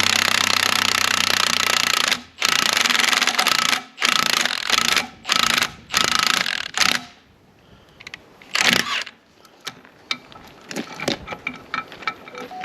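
Impact wrench hammering in about six long bursts, then one short burst, as it drives a puller to free a stubborn pulley from its keyed shaft. Near the end, light clicks and taps of metal parts being handled.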